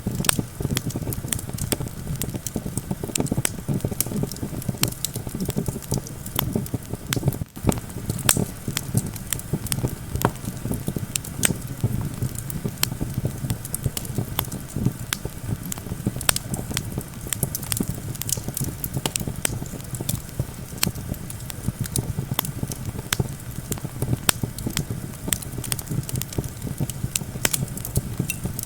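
Campfire crackling, with frequent irregular sharp pops and snaps, over a steady low rumble of wind.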